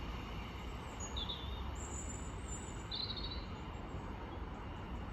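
Steady outdoor background noise with a low rumble, and a few short high-pitched bird chirps about one to three seconds in.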